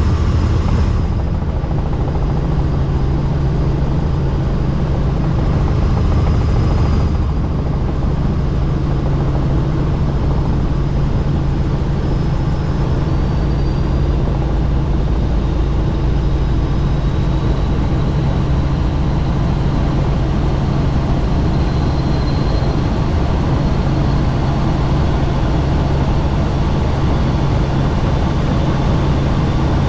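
Helicopter in flight, heard from on board with the doors off: steady rotor and engine noise.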